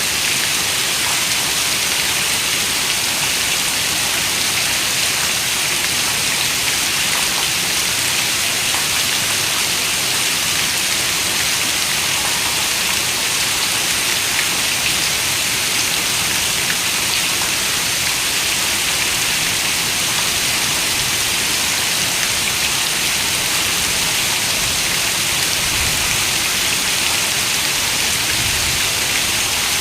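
Steady rain falling, an even hiss of many drops with no breaks or swells.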